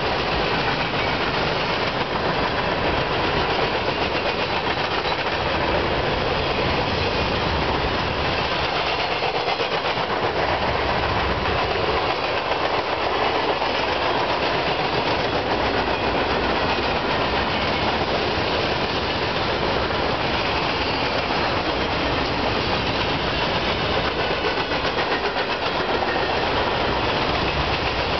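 Cars of a CSX manifest freight train rolling past close by: a steady, unbroken noise of steel wheels running on the rails.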